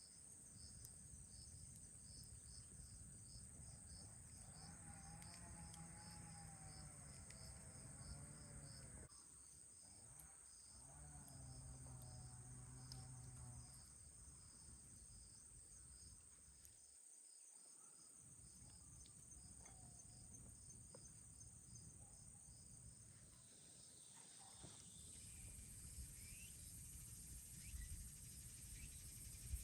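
Faint night insects, crickets among them, chirping in an even pulsing rhythm over a steady high drone. A fainter low sound that wavers in pitch comes and goes twice in the first half.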